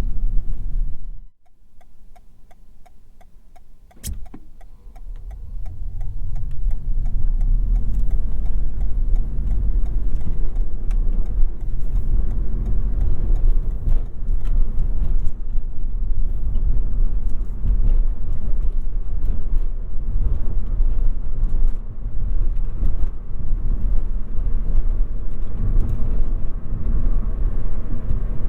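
Road and tyre rumble from a Toyota Yaris Hybrid driving over rough road. About a second in the rumble drops away suddenly, leaving a quieter stretch with faint even ticking. A sharp click comes near four seconds, after which the rumble builds back up and runs on steadily.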